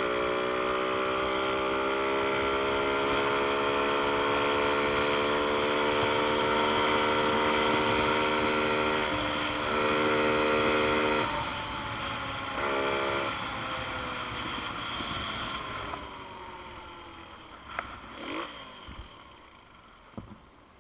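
Xpro Storm DLX 150cc pit bike's single-cylinder engine running at steady high revs. It drops off briefly twice, then fades away gradually over the last several seconds.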